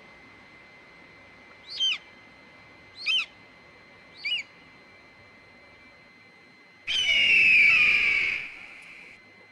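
A bird calling: three short, high calls that slide down in pitch, about a second apart, then a longer, louder call that falls in pitch near the end.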